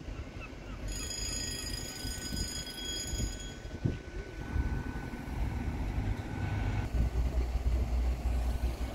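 Train on the line by the level crossing: a low engine rumble builds from about halfway and grows stronger near the end. About a second in, a steady high-pitched whine lasts roughly three seconds.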